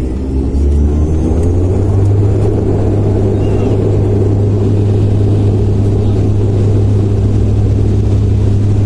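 Airliner engines at take-off, heard from inside the cabin as a loud, steady low rumble that builds over the first couple of seconds and then holds.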